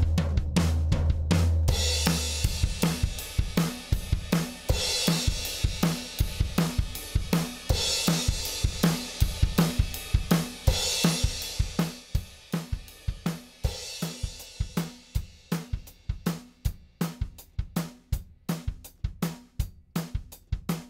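Recorded drum kit playing a steady beat of kick, snare and hi-hat, with cymbal washes coming and going, played through a Lindell Audio 17X FET (1176-style) compressor. A low sustained bass note drops out about two seconds in. After about twelve seconds the kit thins to drier, quieter hits without cymbals.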